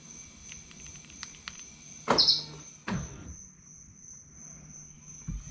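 Rivian R1T power door handle retracting and closing onto a hand: two sharp mechanical clunks about a second apart, the first with a brief whirr. A steady high insect trill runs underneath.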